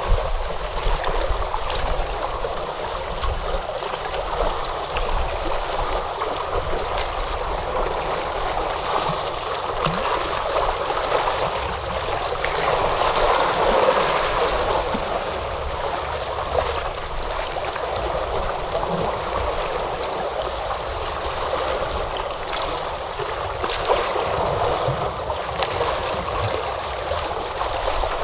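Ocean surf washing in: a steady rush of breaking waves that swells to a louder peak about halfway through.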